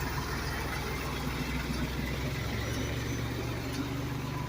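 Fire truck's engine running steadily, a low even hum.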